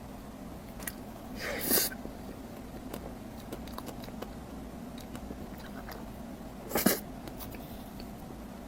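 Deep-fried bread being bitten and chewed close to the microphone: two louder crunching bites, about one and a half seconds in and near seven seconds, with small wet mouth clicks in between.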